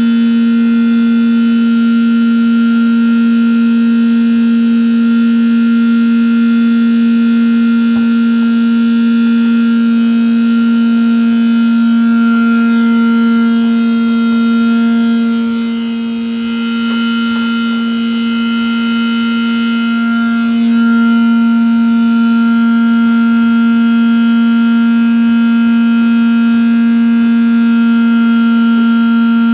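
Pump running steadily with a loud, even hum, emptying a grease trap. The hum dips briefly about halfway through, then carries on.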